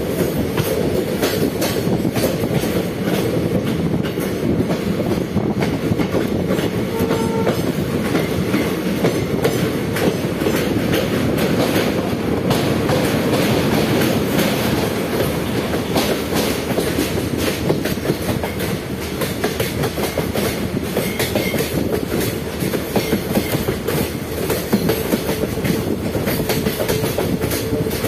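Train wheels running on the rails, a steady rumble with a dense, continuous clatter over the track joints.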